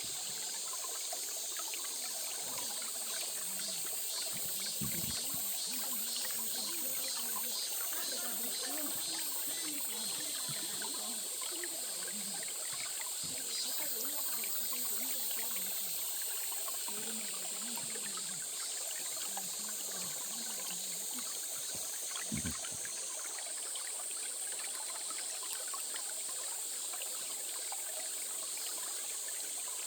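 Stream water trickling steadily, with a steady high-pitched hiss above it and a brief low thump about two-thirds of the way through.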